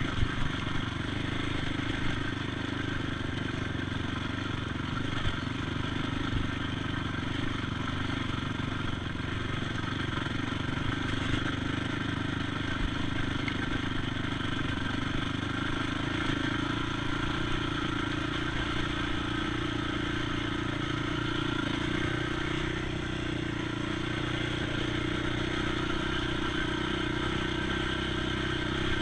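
ATV engine running at a fairly steady pitch while being ridden, with low rumble and a few brief knocks and rattles.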